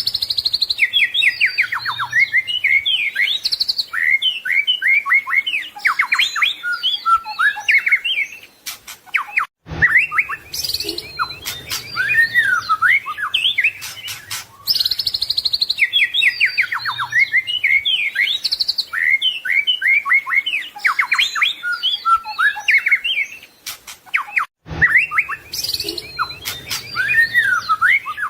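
White-rumped shama (murai batu) singing a fast, varied song of whistled notes, rising and falling glides and trills, full of mimicked 'isian' phrases. The same stretch of song repeats, with a sudden drop-out about ten seconds in and again near the end.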